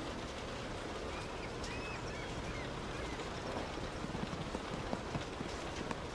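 Heavy rain on a moving car: a steady hiss of rain and road spray, with scattered clicks of drops striking.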